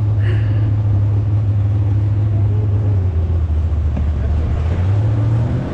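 An engine running with a steady low drone, its pitch dropping slightly about three seconds in and coming back up near the end.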